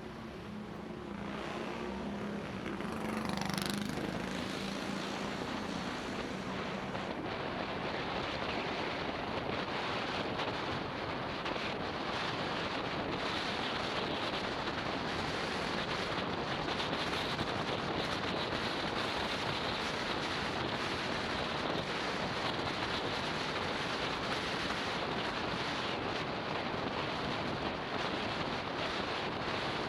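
Wind rushing over the microphone of a motorbike-mounted camera while riding, with the motorbike engine's hum heard under it for the first few seconds. The rush grows over the first few seconds, then stays steady.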